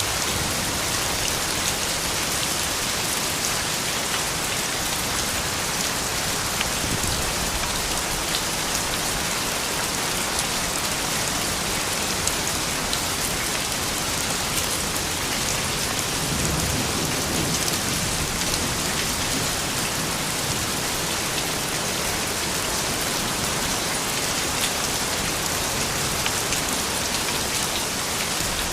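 Soft, steady rain falling, a dense hiss with many fine drop ticks, and a brief low rumble about halfway through.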